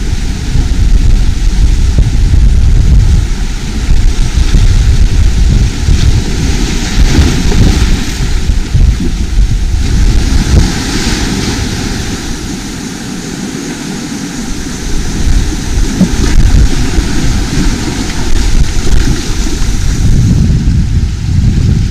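Sea waves and surf heard through heavy wind buffeting on the microphone, a loud, uneven rumble. The deep rumble eases about halfway through while the hiss of the water comes forward, then builds again near the end.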